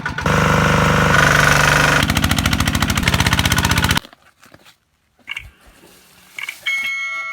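Kubota RT155 single-cylinder diesel engine of a farm truck running fast with a rapid, even chugging, then cutting off suddenly about four seconds in. What follows is much quieter, with a few faint knocks and a brief high tone near the end.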